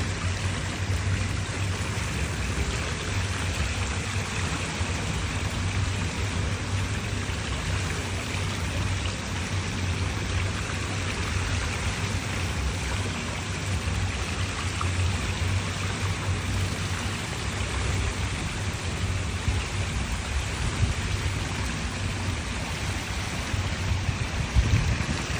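Steady rush of water with a low rumble underneath, unchanging throughout, with a brief louder swell near the end.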